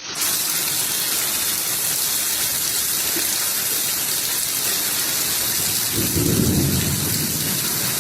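Heavy rain falling steadily, with a low rumble joining it from about six seconds in.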